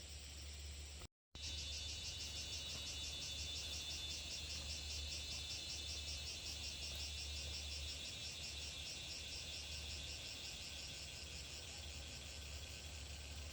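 Insects chirping in a fast, even, high-pitched pulsing trill over a steady low rumble, starting just after a short break about a second in.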